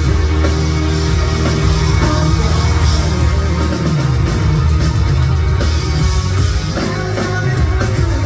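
Rock band playing live, with electric guitars, bass and a drum kit at a steady, loud level.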